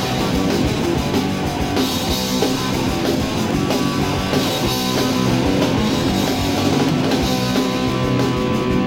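Punk rock band playing live, an instrumental passage with distorted electric guitar, bass and drums and no singing.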